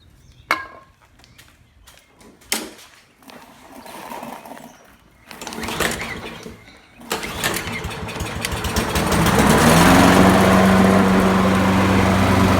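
Kohler 149cc single-cylinder engine on a Poulan self-propelled lawn mower being pull-started. A few knocks and handling sounds come first, then the engine catches about seven seconds in, revs up and settles into a steady run.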